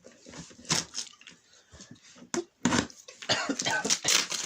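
Cardboard packaging being pulled and torn open by hand: a run of irregular ripping and crackling noises that grows denser in the second half.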